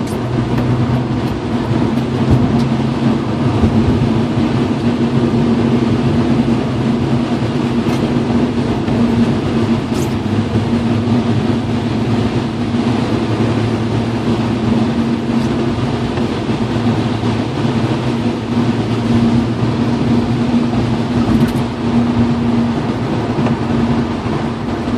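BMW E36 M3's straight-six engine running at a steady, unchanging pitch, with a constant hiss of tyre and road noise on a wet road.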